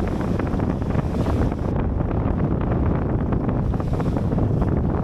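Strong wind buffeting the microphone, a steady low rumble with crackling gusts.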